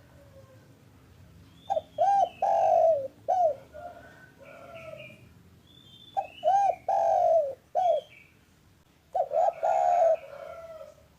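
Spotted dove (derkuku/tekukur) cooing in three phrases a few seconds apart, each a quick run of low notes with one longer, louder coo. Fainter high chirps from small birds fall between the phrases.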